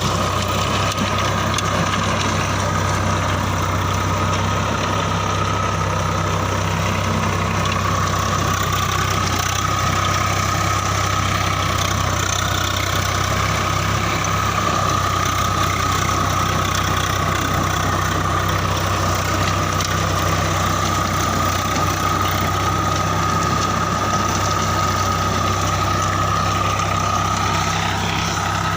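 Swaraj tractor's diesel engine running steadily, a low, even engine hum with a steady high whine over it.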